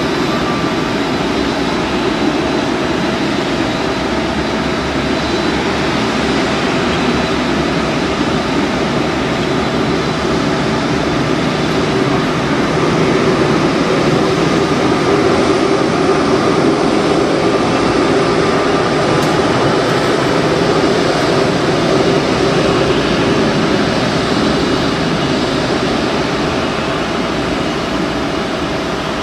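Korean Air Airbus A380's jet engines running: a loud, steady rush of engine and air noise with faint whining tones, swelling a little about halfway through.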